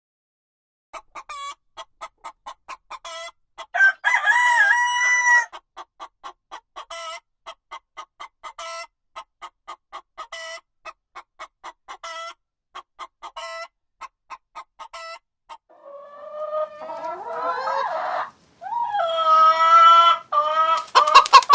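Chicken clucking: a steady run of short clucks, about two a second, with one longer call about four seconds in. Near the end come louder, drawn-out calls.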